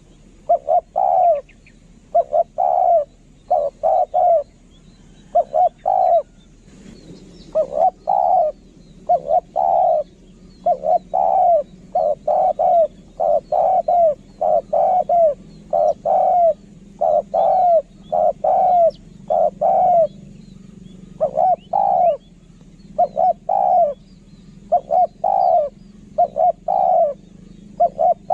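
Spotted dove cooing over and over: short, arched hoots in quick runs of two or three, with brief gaps between the runs. It is the dove's lure call.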